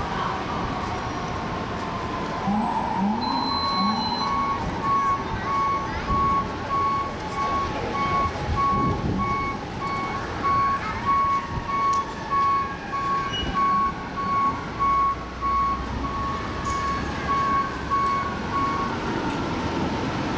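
Emergency vehicle sirens wailing in the street traffic, with a steady electronic beep repeating about once a second through most of the stretch.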